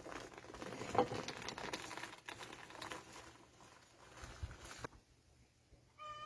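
Light tapping, clicking and rustling as small pieces of wood and tools are handled on a workbench, busiest in the first five seconds with the sharpest tap about a second in.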